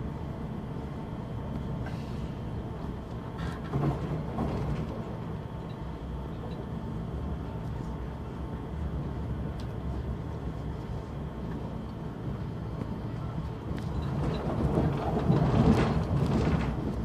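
Airport Railroad express electric train running at speed, heard from inside the carriage: a steady low rumble of the ride, with a short louder bump about four seconds in and the rumble swelling louder near the end.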